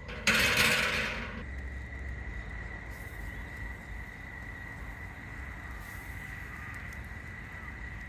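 Steady, unbroken high-pitched insect trill over a low background hiss, with a loud burst of hissing noise lasting about a second near the start.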